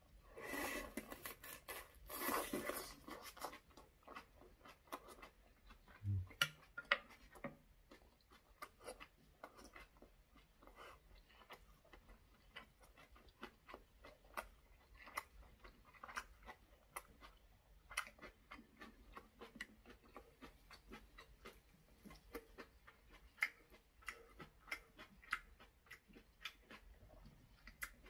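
Close-up chewing of a large mouthful of braised saury wrapped in aged kimchi: a steady run of small wet smacks and clicks, with a louder, noisier stretch in the first few seconds.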